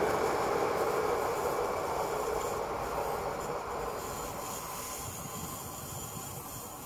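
Pesa Elf electric multiple unit running away down the track, its rail noise fading steadily as it recedes.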